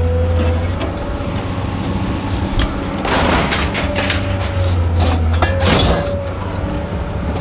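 Scrap being handled, with two louder bouts of clattering and scraping about three and five and a half seconds in, over an engine running steadily.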